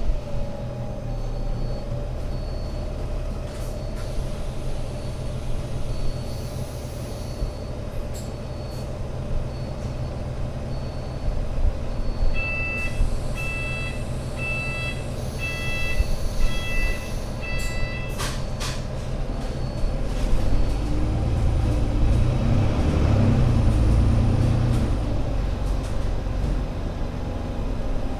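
Alexander Dennis Enviro500 MMC Euro 6 double-decker bus engine running steadily, with a faint high beep repeating about once a second. About halfway through, a run of about six louder electronic beeps is followed by a short clatter and hiss. The engine then rises in load, as when the bus pulls away.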